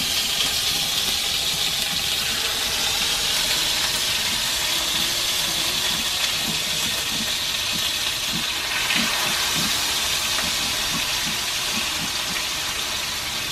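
Turmeric-marinated chicken pieces frying in hot oil in a cast iron pan: a steady, even sizzle.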